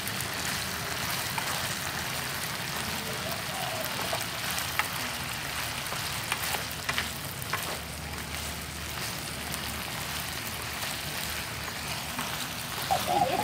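Pork belly frying in soy sauce in a pan: a steady sizzle with a few sharp pops.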